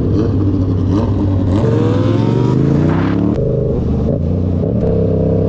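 Motorcycle engine accelerating. Its pitch climbs for under two seconds, drops suddenly at a gear change a little over three seconds in, then holds steady at speed.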